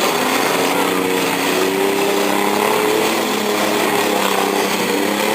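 Several demolition derby cars' engines running together, their pitches drifting up and down as they rev, over a steady wash of noise.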